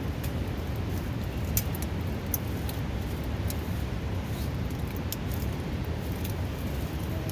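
The steady, loud rush of a river, with scattered small sharp crackles from a burning wood campfire.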